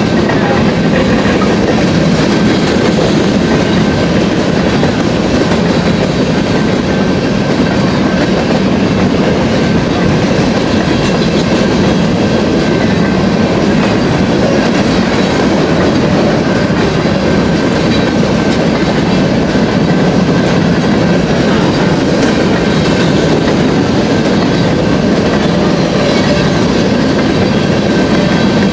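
Empty grain hopper cars of a freight train rolling past, steel wheels clattering over the rails in a steady loud rumble, with a thin high ringing tone held above it.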